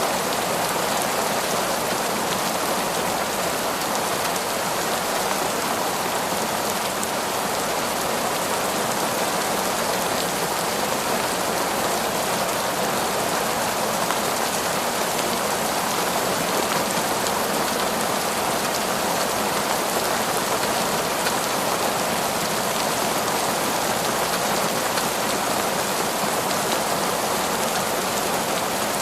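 Heavy, steady torrential rain falling in a forest, a dense even hiss of countless drops.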